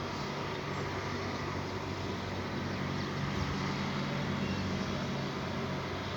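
Steady low mechanical hum over a constant hiss, with no change in level.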